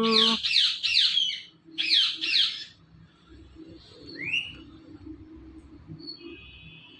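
A green pet parrot giving five loud, harsh screeching calls, falling in pitch: three quickly at the start, then two more about two seconds in. A single short rising whistle follows about four seconds in.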